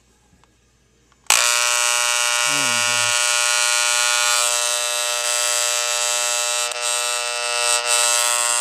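Older Wahl CMCO hair clipper switched on a little over a second in and running with a steady, loud buzz. It is being test-run after being repaired and adjusted, and it is working again.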